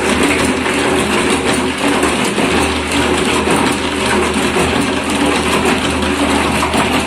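Homemade concrete mixer running steadily, a constant motor hum under a continuous rattle from the turning drum.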